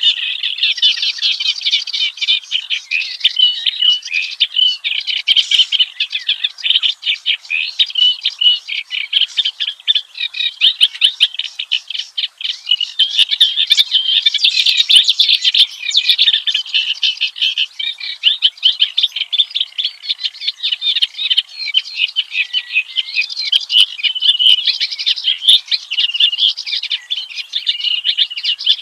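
Kerak basi (reed warbler) singing a long, unbroken song of rapid, varied chattering and croaky notes.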